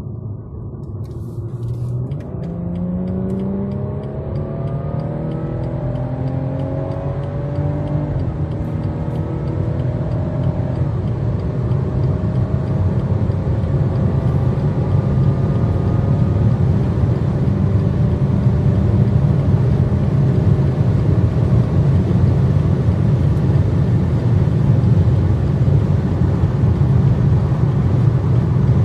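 A 2017 BMW M140i's 3.0-litre turbocharged straight-six accelerating hard, its note climbing and falling back through several upshifts. It then settles into a steady, loud rush of wind and road noise at high speed, with a deep rumble underneath.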